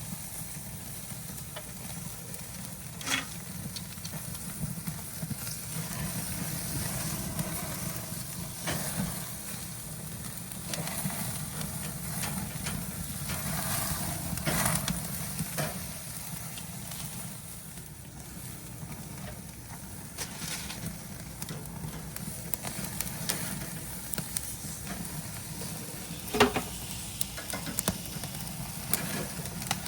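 Food sizzling on a hot kamado grill in a steady hiss, with a few sharp clicks and knocks of cooking utensils scattered through it.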